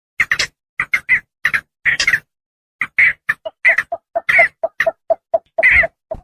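Javan pond heron calls: a quick run of short, harsh croaks, about three to four a second, with a short break about two seconds in.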